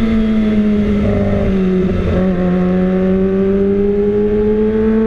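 Kawasaki ZX-25R 250 cc inline-four on the move through an aftermarket Austin Racing silencer, a steady high engine note. The note dips briefly about two seconds in, then climbs slowly as the revs rise.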